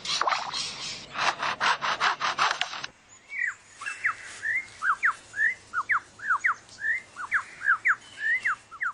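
Superb lyrebird mimicking a chainsaw with rapid rasping bursts. About three seconds in, it breaks into a quick run of clear whistled notes that sweep sharply up and down.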